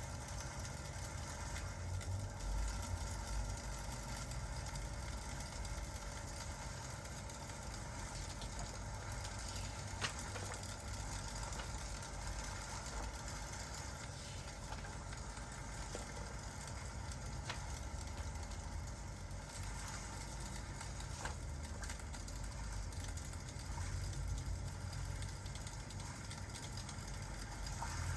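Crackling fireplace with rain: a steady low rumble and hiss with a few sharp pops, the clearest about ten seconds in.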